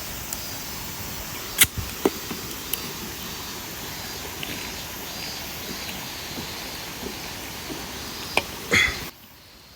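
Wood campfire burning with a steady hiss and a few sharp crackling pops, the loudest near the end.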